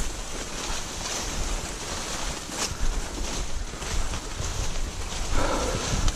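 Wind buffeting the microphone: a steady rushing noise with low rumble and no distinct events.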